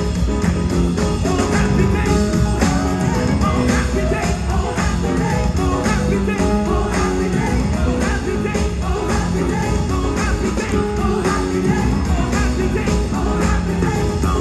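Live gospel music: singers performing over a band with a steady beat.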